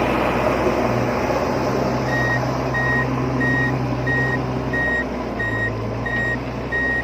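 Reversing beeper of a remote-control toy construction vehicle: short, evenly spaced electronic beeps, about one and a half a second, starting about two seconds in, over a steady low hum.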